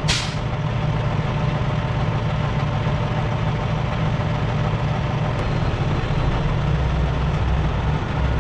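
Semi truck's diesel engine running with a steady low rumble, with a short hiss right at the start.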